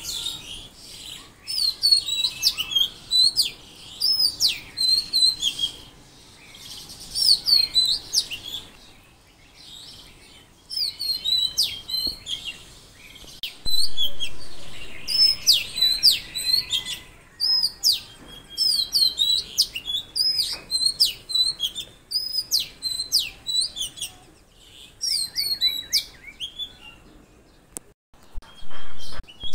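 Songbirds chirping: bursts of short, high sliding notes repeated one after another, with brief pauses between the bursts.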